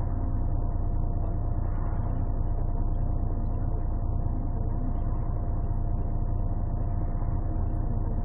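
Onboard sound of a Scania CN113CLL city bus with a Scania DSC 11.71 six-cylinder diesel and Voith automatic gearbox, running steadily with a low drone and a steady whine. The sound is muffled and bass-heavy from a partly covered phone microphone.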